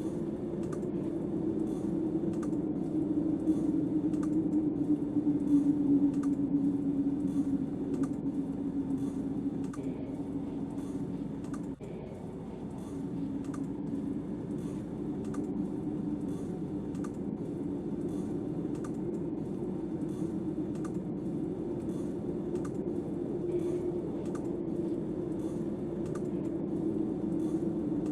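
A steady low rushing noise with faint crackling clicks about once a second, briefly dropping about twelve seconds in.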